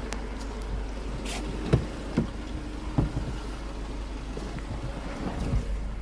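Mercedes C180 four-cylinder petrol engine idling steadily at its first start after a timing chain replacement, with a few separate sharp knocks over the idle.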